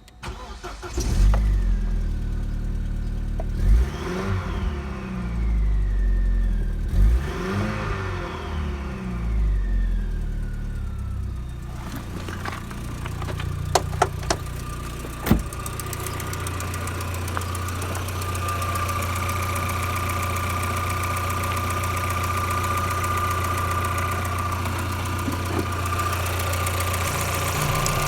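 Opel Omega's Y22XE 2.2-litre four-cylinder petrol engine starting about a second in and revved twice, the revs falling back each time. It then settles to a steady idle with a thin whine over it, and a few sharp clicks come in the middle.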